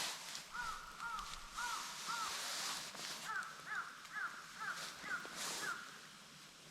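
A bird calling in two runs of short, evenly spaced calls, four and then six, over a steady background hiss.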